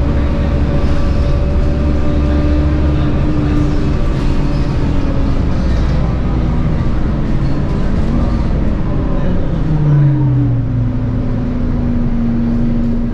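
Scania K230UB bus under way: its Scania DC9 engine and ZF Ecomat 6HP504C automatic gearbox run with a steady whine over a low rumble. About ten seconds in, the pitch falls and settles lower.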